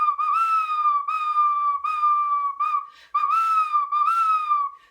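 Whistled bird-call imitation: a run of clear notes, each rising slightly then sliding down, with a short break about three seconds in.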